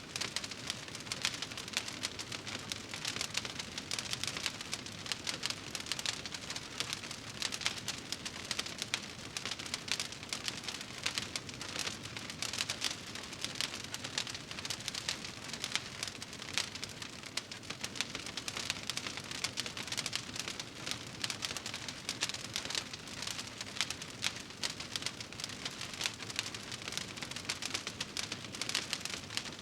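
Wood fire crackling in a fireplace: a steady hiss with many quick small pops and crackles throughout.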